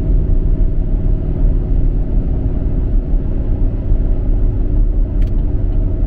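Strong wind buffeting a car driving on a highway: a loud, steady low rumble mixed with road noise.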